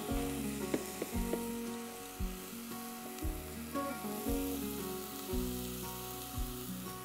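Garlic, ginger and chilli paste with leaves sizzling in hot oil in a frying pan as chilli powder is tipped in. Background music with held notes and a soft beat about once a second plays over it.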